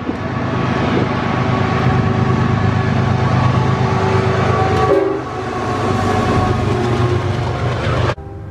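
A train going by with its horn sounding a steady chord over the rumble of the train; the sound cuts off abruptly about eight seconds in.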